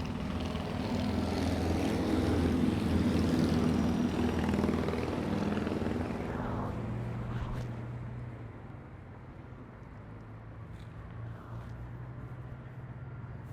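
A passing vehicle's engine swells over the first few seconds and fades away after about six seconds, leaving a steady low hum.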